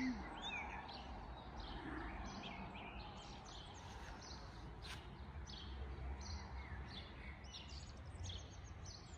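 Small songbirds chirping and singing in short, repeated phrases over a steady low background rumble, with a single faint click about halfway through.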